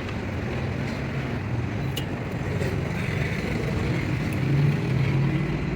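A steady low engine hum with an even background rumble, swelling slightly near the end, and a few faint clicks.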